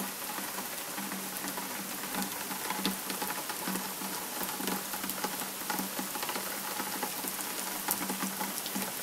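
Heavy rain coming down hard: a steady hiss dotted with many small drop ticks.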